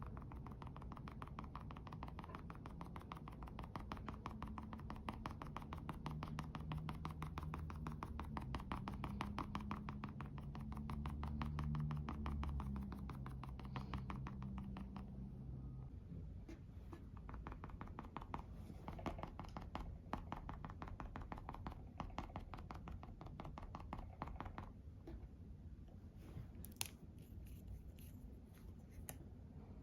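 Makeup being applied to a mannequin head: a fast, even run of small taps or brush strokes for about the first half, then scattered separate taps and clicks.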